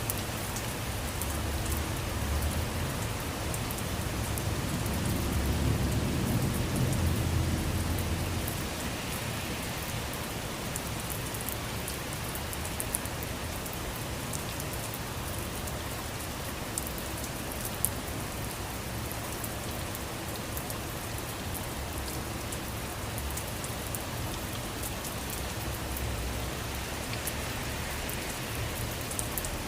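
Steady rain falling on a surface, with scattered sharp drop ticks. A low rumble swells in the first few seconds, peaks around six or seven seconds in, then fades.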